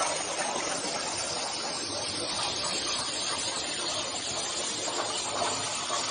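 Plasma cutting torch cutting metal plate: a steady hiss from the arc and its gas jet.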